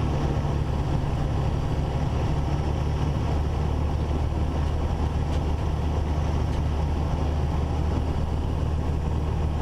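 Cessna 172's four-cylinder Lycoming engine and propeller droning steadily in the cabin, throttled back for the landing approach. The low engine hum shifts slightly about three seconds in.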